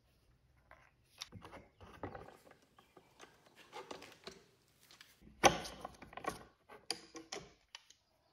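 Hand work on furniture parts: irregular clicks, knocks and scrapes, with one sharper, louder knock about five and a half seconds in.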